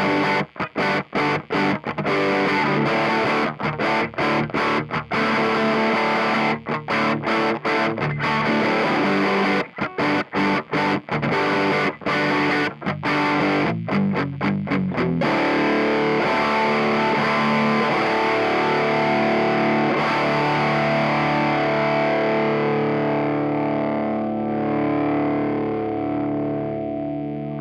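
Distorted electric guitar through a Mooer Black Secret distortion pedal, a Proco Rat clone. It plays choppy riffs with sharp stops for about the first fifteen seconds, then lets a chord ring out and slowly fade.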